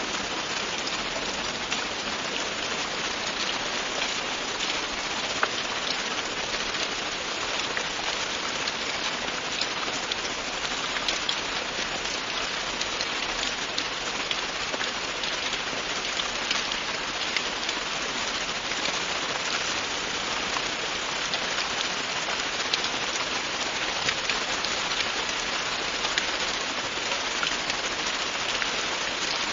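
Steady, continuous rain, a dense hiss of falling rain with the fine patter of individual drops hitting a surface.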